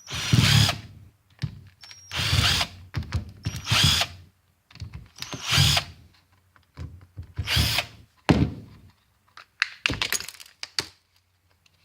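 Power drill/driver backing Phillips screws out of a hot glue gun's plastic housing, running in about seven short bursts. Small clicks and knocks of handling come between the bursts.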